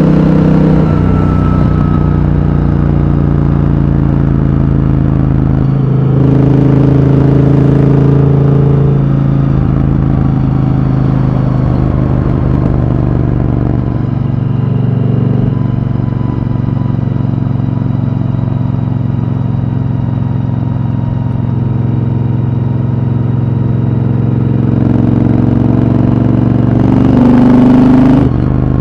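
Triumph Thunderbird Storm's 1,700 cc parallel-twin engine running at a steady motorway cruise, its exhaust note holding an even pitch. It grows louder about six seconds in and again near the end.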